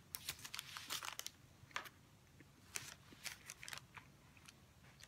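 Faint chewing of a bite of microwaved burrito: irregular clusters of small wet clicks and crackles, with a pause in the middle.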